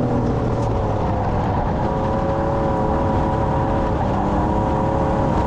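Stock car's engine heard from on board, running steadily under a heavy rumble of road and wind noise. Its pitch drifts slightly down and steps back up about four seconds in.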